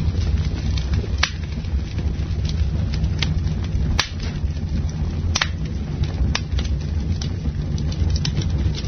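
Campfire burning with a steady low rush of flame and sharp crackling pops of burning wood, a strong pop every second or so among smaller ones.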